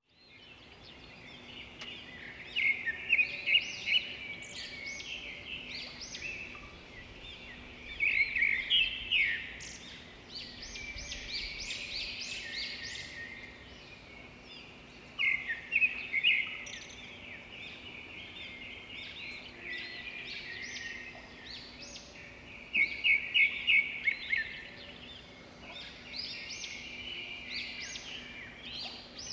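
Birds calling and singing, with one loud bird breaking in four times with a short burst of rapid repeated notes.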